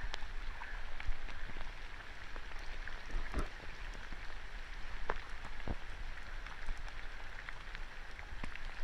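Fast-flowing floodwater rushing in a steady hiss, the strong surge released by a burst blockage, with scattered sharp clicks and a few louder knocks.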